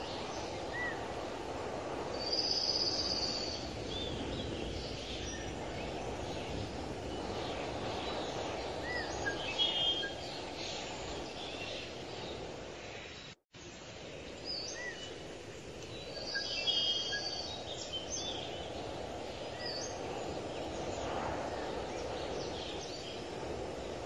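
Birds calling and chirping, with short high whistled and warbling calls several times, over a steady background noise of outdoor ambience. The sound cuts out briefly about halfway through.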